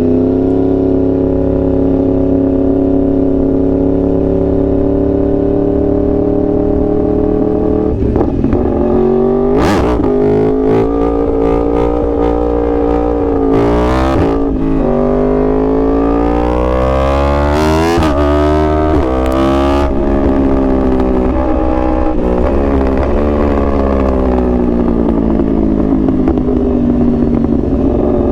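2021 Yamaha R1's crossplane inline-four engine running under way on the road. The revs hold steady at first, then climb and drop sharply several times through the middle, with short bursts of noise near some of the drops, before settling into a slow dip and rise.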